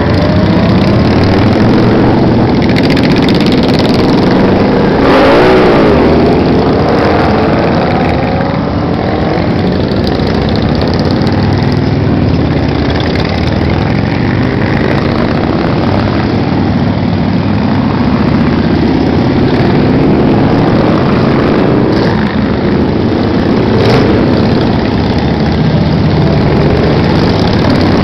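A stream of motorcycles riding past: many engines running at once, loud and continuous, with individual bikes revving up and down. One bike revs up and back down about five seconds in.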